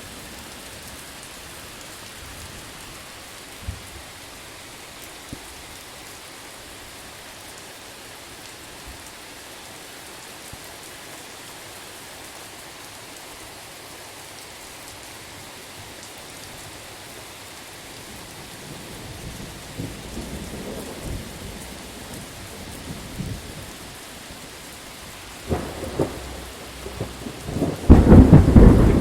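Steady rain falling through a thunderstorm. Thunder starts to rumble about two-thirds of the way in, with a sharper crack shortly before the end and the loudest thunder peal at the very end.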